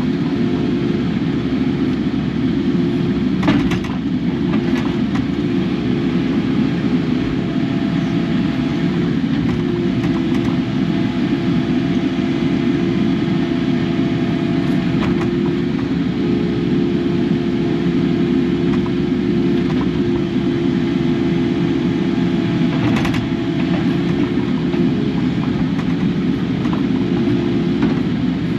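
Kubota KX080 excavator's diesel engine running steadily under work, with a couple of sharp knocks or clanks, one a few seconds in and one near the end.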